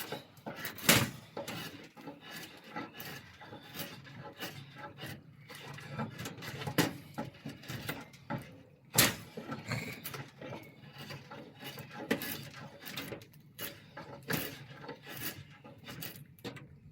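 Hand-tool work on a wooden bow stave: irregular knocks and clicks of wood being handled and struck, with some rough scraping in between. The sharpest knocks come about a second in, then near 7, 9 and 12 seconds.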